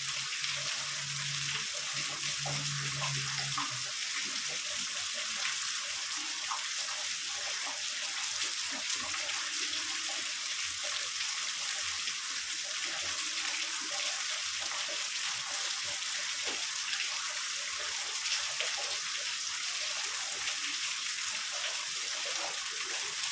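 Heavy rain falling steadily, a dense even hiss with scattered drop ticks. A low rumble underneath fades out about four seconds in.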